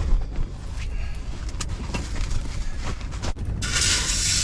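Strong gusting wind buffeting the camper and the microphone, a rough low rumble. Near the end a steady hiss starts suddenly and keeps going.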